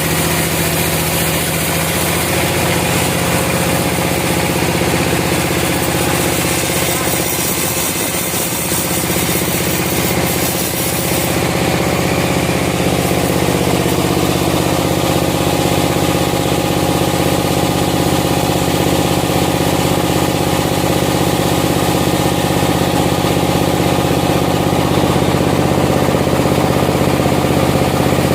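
An engine running steadily at a constant speed. Its sound shifts about eleven seconds in and is a little louder after that.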